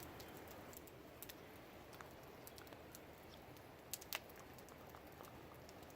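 Wood campfire crackling faintly: scattered sharp pops over a low steady hiss, with two louder pops about four seconds in.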